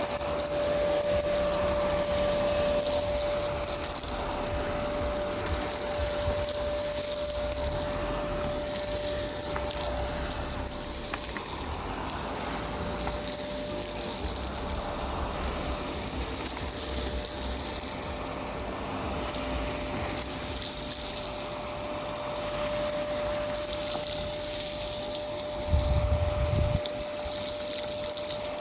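Miele Complete C2 Tango EcoLine canister vacuum running steadily: a constant motor whine over the hiss of suction, with crackle from debris being sucked up. A low bump about a second long comes near the end.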